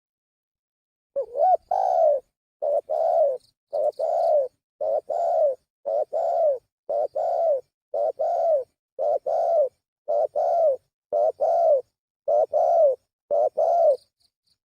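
Spotted dove (tekukur) cooing as a lure call, a short note followed by a longer arched coo. The phrase repeats evenly about once a second from about a second in until shortly before the end, with dead silence between phrases.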